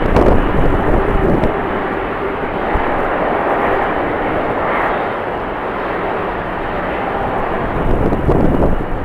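Jet airliner engine noise at an airport, a steady wash of sound. Wind buffets the microphone in low rumbling gusts at the start and again near the end.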